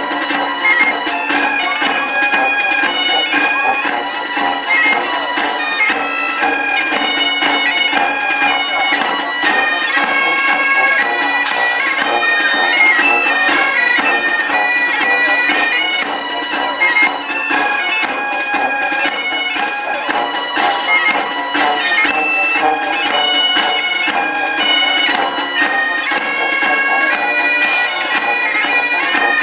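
Live wind-instrument music: a melody with quick ornamental notes played over a steady held drone.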